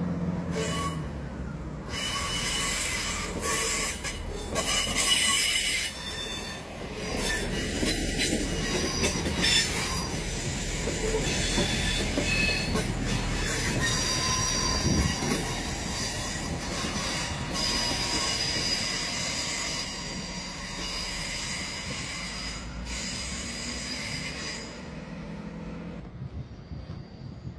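A train running on the rails with its wheels squealing: several high-pitched squeals come and go over a steady rumble, easing off near the end.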